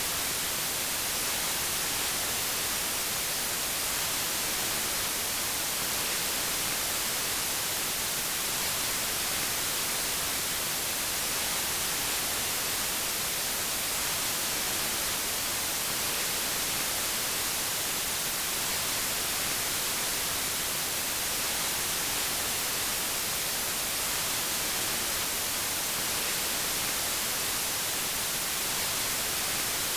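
Steady white noise: an even, unchanging hiss with most of its weight in the high end.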